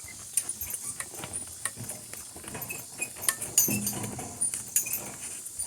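Metal fittings of a donkey team's harness clinking and jingling in irregular clicks as the donkeys walk on, with a steady high drone of insects behind.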